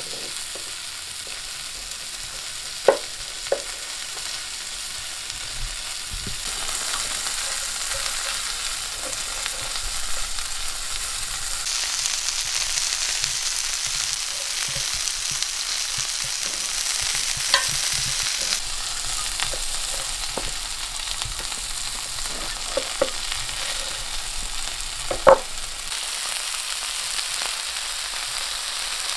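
Moose steaks and sliced onions and peppers frying in cast iron skillets, a steady sizzling hiss that grows louder about six seconds in. A few sharp knocks and taps stand out, the loudest near the end.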